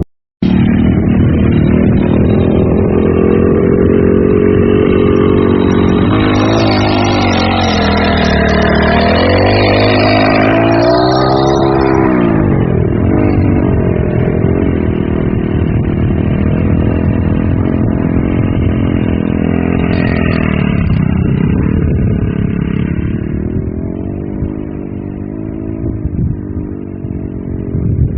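Off-road cage buggy's engine running hard under load. Its pitch dips and climbs back twice in the first half, then holds steady and eases off a little near the end.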